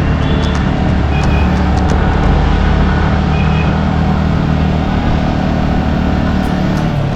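Yamaha R15 V3's 155 cc single-cylinder engine running steadily while riding, with wind and road noise over the microphone. A few faint short high beeps come in the first few seconds.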